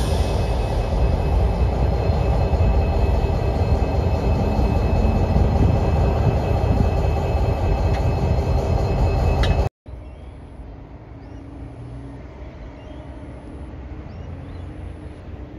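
A train passing close by: a loud, heavy rumble of wheels on rail with faint steady whining tones above it. About ten seconds in it cuts off abruptly to a much quieter scene with a low, distant engine hum.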